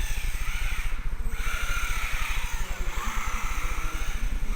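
Electric motor and drivetrain of a 1/16-scale four-wheel-drive RC rally car whining, the pitch rising and falling as the throttle is worked, over a constant low buffeting.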